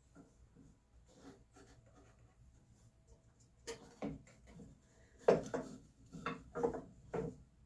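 Wooden boards being handled on a workbench: faint scraping, then a run of about seven sharp wooden knocks and clatters in the second half.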